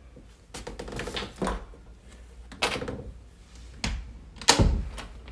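A series of sudden knocks and clattering bumps of hard objects being handled, with the loudest knock about four and a half seconds in.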